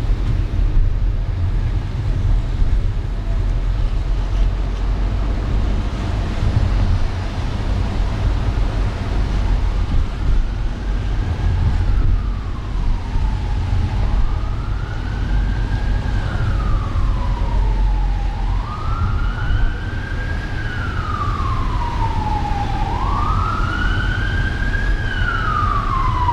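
An emergency vehicle's wailing siren comes in about ten seconds in, slowly rising and falling about every four seconds and growing louder. Under it runs the steady low rumble of a car driving.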